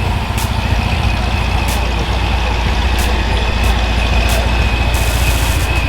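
Show car's engine idling loudly with a deep, steady low rumble and a thin high whine running over it.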